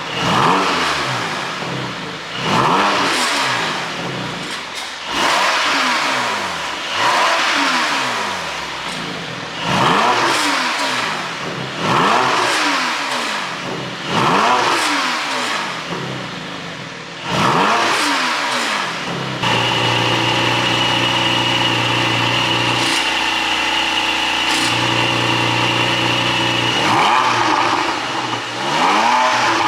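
Porsche 718 GTS 4.0's flat-six engine revved repeatedly, about eight quick blips that climb and fall back every couple of seconds, then held at steady high revs for about seven seconds before dropping and blipping once more. The exhaust is run with an ECU tune and flaps opened for pops.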